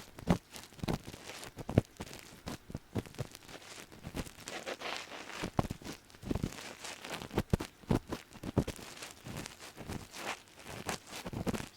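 Ear pick scraping and rubbing deep in an ear, close up: an irregular run of short scratchy strokes and crackles, with a few sharper clicks.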